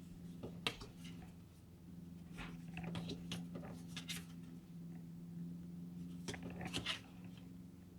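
Tarot cards with a matte laminate being handled and turned over: a few soft clicks and rustles, clustered about a second in, around three to four seconds in, and near seven seconds, over a steady low hum.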